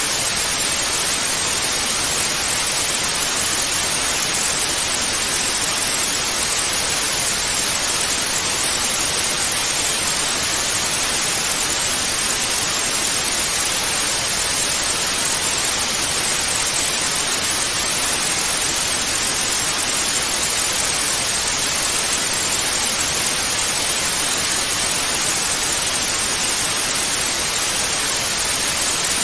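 Analog TV static hiss: a steady, even white-noise rush with no change in level, brightest in the upper range.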